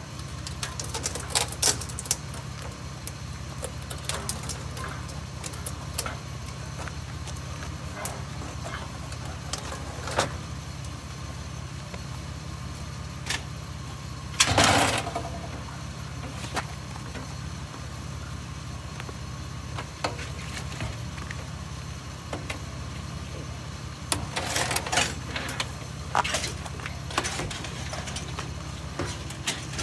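Scrap metal clanking and clattering as it is handled and loaded, with one louder clatter about halfway through and a run of clanks near the end, over the steady low hum of an idling vehicle engine.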